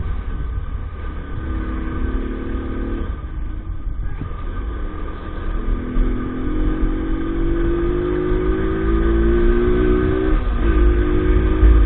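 Small 50cc EAYS Pro motorbike engine running under way, its pitch climbing steadily from about halfway through, then dropping suddenly and settling near the end, over a constant deep rumble.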